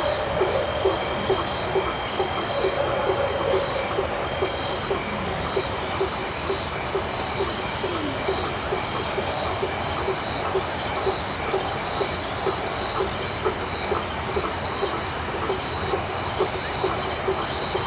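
Tropical night chorus of crickets and frogs: steady high-pitched trilling of several crickets, with a frog giving a short low call about twice a second over a dense hiss of insect noise.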